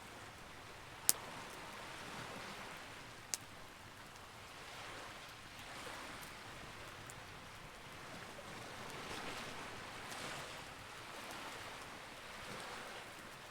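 Campfire burning with a steady rushing hiss that swells and fades, broken by two sharp wood pops, about a second in and about three seconds in.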